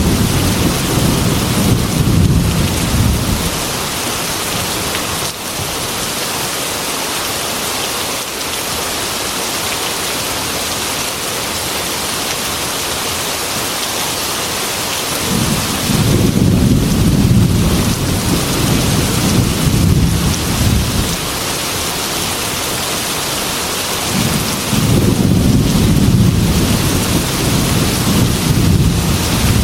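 Heavy rain beating steadily on window glass, with rolling thunder rumbling three times: a rumble dying away early, another swelling about halfway through, and a third near the end.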